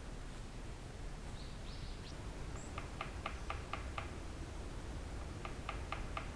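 A small bird calling: two runs of short, sharp repeated notes, about four a second, over a low steady background rumble.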